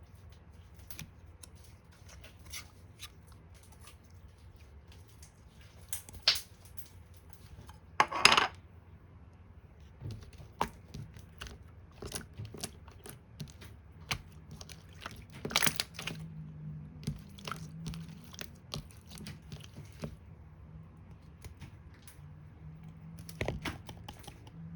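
Scattered clicks, taps and rustles of small objects being handled, with a louder rattling burst about eight seconds in and another about halfway through, over a faint low hum.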